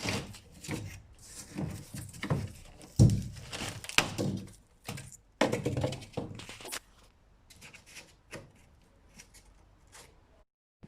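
Irregular knocks and thuds from objects being handled, the loudest about three and four seconds in, a cluster a little later, and then only faint clicks.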